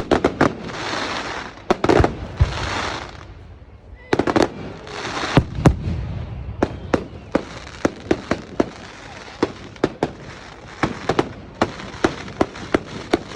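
Fireworks going off: sharp bangs mixed with hissing bursts about a second long in the first few seconds, then a rapid string of loud bangs, two or three a second.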